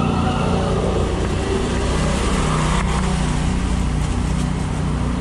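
Strong wind buffeting the microphone while riding an e-bike, mixed with a steady motor drone.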